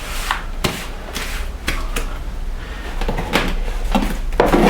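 Wet sand-concrete mix being scooped and worked with a hand tool: a series of short scraping strokes, roughly one every half second, with a pause in the middle.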